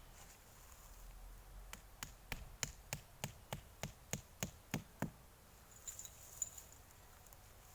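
Repeated knocking: about a dozen sharp knocks at roughly three or four a second, stopping after a few seconds.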